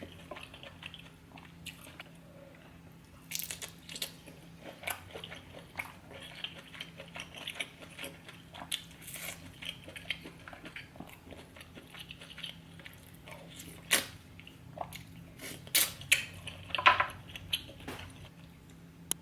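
Close-miked eating of spicy king crab seafood boil: wet chewing and biting with scattered crunches and clicks, loudest in a few sharp cracks in the second half.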